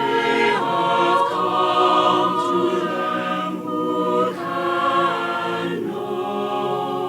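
A choir singing slow, sustained chords that change every couple of seconds.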